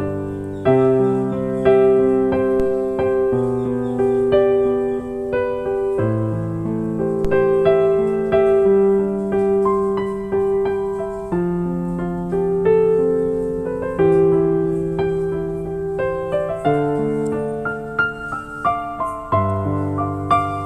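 Slow, gentle piano music, single notes and chords struck about once a second and left to ring.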